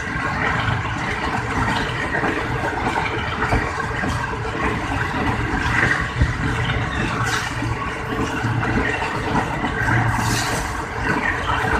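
Steady running noise of a moving passenger train heard from inside the carriage: low rumble of the wheels on the rails mixed with rushing wind, with a brief louder hiss about ten seconds in.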